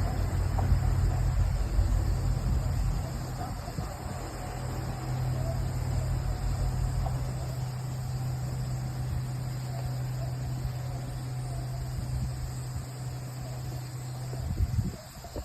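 Insects chirring steadily over a low, steady hum; the hum stops near the end and a few louder bumps follow.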